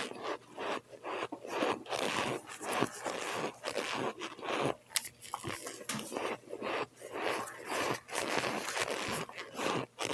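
Biting and chewing of cold boiled cornstarch chunks: a dense, steady run of crunching bites and chewing.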